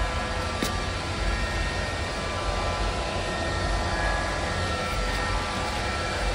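ILIFE robot vacuum running: a steady whir of its suction fan and motors with a low rumble and a few high whining tones, and a single click about half a second in.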